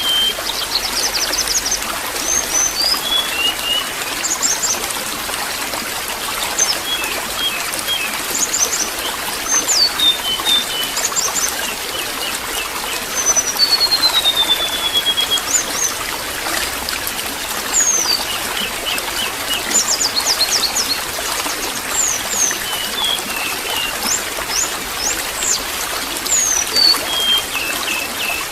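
Water trickling and gurgling steadily, with small birds chirping over it in short rising and falling notes and quick trills, including a longer descending trill about 13 seconds in.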